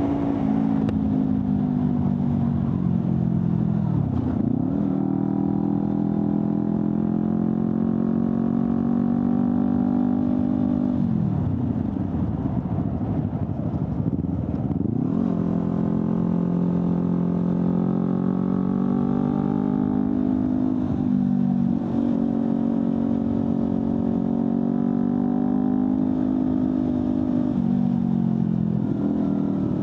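Honda CBR250RR's parallel-twin engine running through an Akrapovic slip-on exhaust while being ridden. It holds a fairly steady pitch, and the note dips and climbs back several times, once for several seconds about halfway through.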